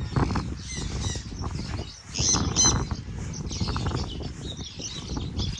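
Small birds chirping in short high calls, two clearer chirps about halfway through, over a low rustling rumble.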